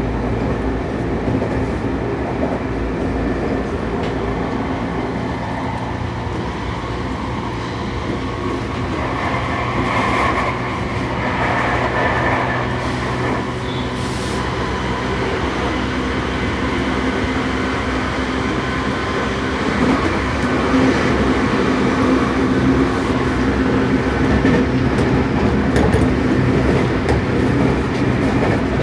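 Inside a motor car of a Seibu 6000 series electric train (Toshiba IGBT traction equipment) running at speed: a steady hum from the traction motors over wheel-on-rail running noise, growing slightly louder about two-thirds of the way through.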